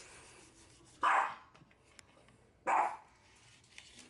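A dog barking twice, two short barks about a second and a half apart.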